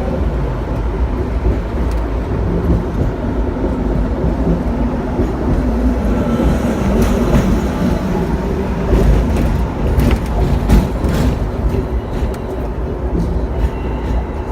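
Hong Kong double-decker electric tram running on its rails: a steady low rumble with scattered clicks and clatter, most of them in the middle.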